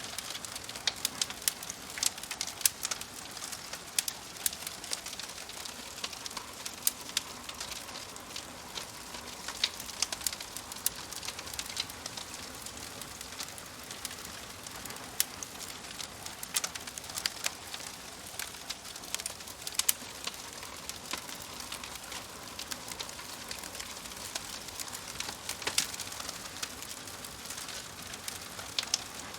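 Wood fire in a fireplace crackling, with a steady hiss and frequent sharp pops and snaps throughout.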